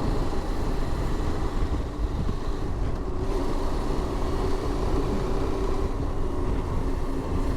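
Motorcycle riding at a steady cruising speed: even engine hum mixed with wind and road noise, heard through an in-helmet microphone.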